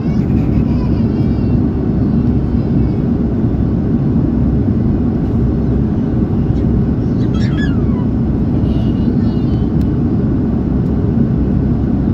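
Steady low rumble of an Airbus A330-300's engines and airflow, heard inside the cabin.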